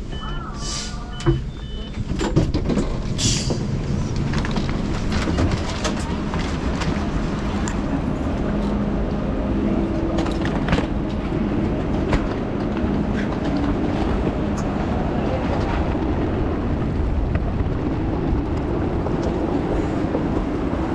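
Steady rumbling rail-travel ambience with scattered clicks and knocks. It opens with a short series of repeated electronic beeps in the first two seconds.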